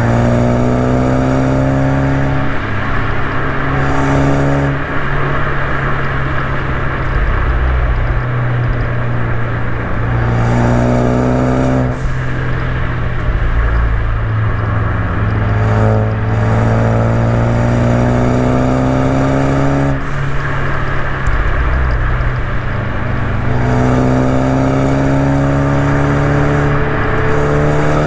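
Turbocharged Ford EcoBoost ST hatchback pulling hard, its engine note climbing in pitch again and again and dropping back at each gear change or lift, over steady road and tyre drone.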